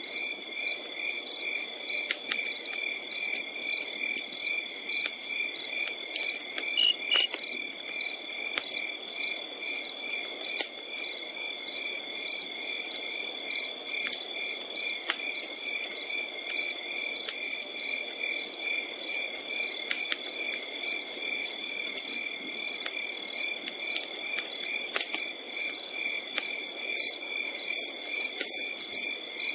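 Crickets chirping in a steady pulsing rhythm, about two chirps a second, over a continuous higher insect trill, with scattered sharp crackles of a campfire throughout.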